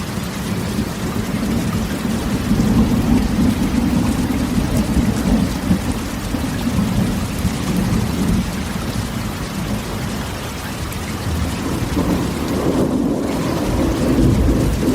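Rain falling steadily on a corrugated metal (tin) roof, with low rolling thunder that swells about two seconds in and again near the end.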